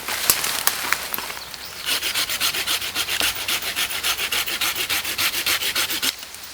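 A hand saw cutting through a tree branch in quick, even back-and-forth strokes, about five a second, that start about two seconds in and stop abruptly near the end, after a few sharp clicks of the wood being handled.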